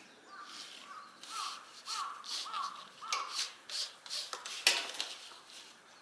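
A crow cawing about five times in quick succession, roughly every half second, over repeated short rasping noises; a sharp click just before the end is the loudest sound.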